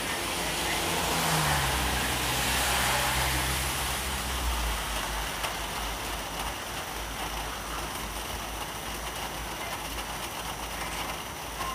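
A motor vehicle passing on a wet street during a rainstorm: tyre hiss and a low engine note swell up and fade over the first four seconds, leaving a steady rain hiss.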